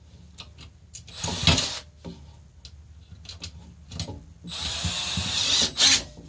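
Power drill-driver running bolts into the bar stool's swivel and base in two short runs: the first about a second in, the second longer, near the end. Between the runs there are light clicks and knocks of metal parts being handled.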